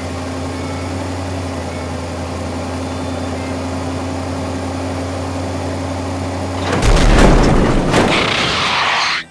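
A steady low mechanical hum, like an engine running. About seven seconds in, a loud boom breaks in with a rushing hiss that lasts about two seconds and then cuts off suddenly.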